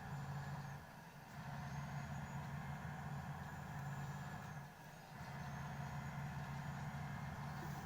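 Car running on the road, heard from inside the cabin: a steady low engine and road hum that dips briefly twice, about a second in and near the middle.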